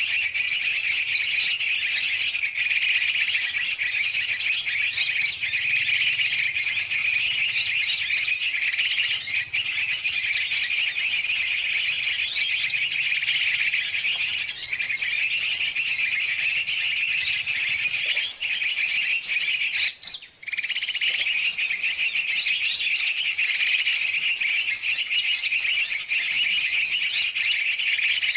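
Dense, noisy chorus of many small and larger birds chirping and chattering over one another without pause, a bird-lure recording used to call in yellow-vented bulbuls and other birds. The chorus breaks off for a moment about twenty seconds in, then resumes.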